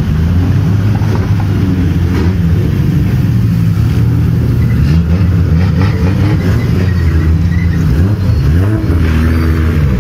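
Modified drift cars driving slowly past one after another, their loud engines running at low revs, with the pitch rising and falling a few times in the last few seconds as the throttle is blipped.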